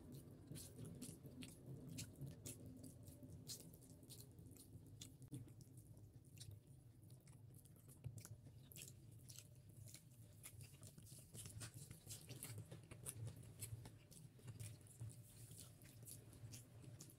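Quiet, close-miked chewing of beef head curry, with frequent irregular wet mouth clicks and smacks over a low steady hum.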